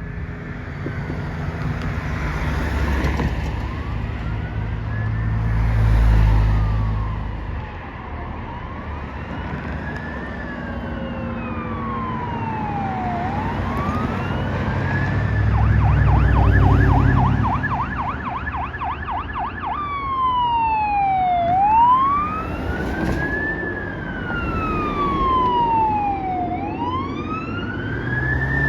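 Emergency vehicle sirens on a slow wail, rising and falling in pitch every few seconds, switching briefly to a fast yelp about two-thirds of the way through before returning to the wail. Heavy vehicle engines swell twice as the fire engine and police cars go by.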